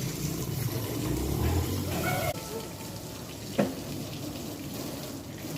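Water running and splashing during a car wash, with a single sharp knock about three and a half seconds in.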